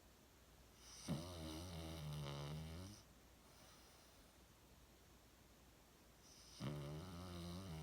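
A Cavalier King Charles spaniel snoring: two long snores of about two seconds each, the first about a second in and the second starting near the end, with a quiet pause between.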